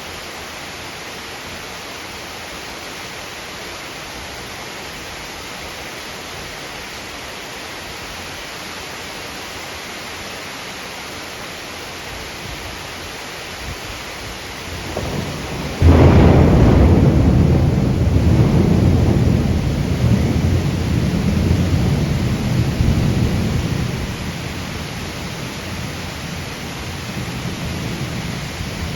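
Heavy rain falling steadily. About halfway through, a loud thunderclap breaks suddenly and rumbles on for several seconds before easing back under the rain.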